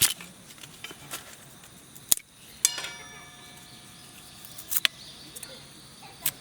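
Sharp knocks and clicks of handled gear, with one metallic clank about two and a half seconds in that rings on for about a second, as from thin titanium fire-pit plates knocking together.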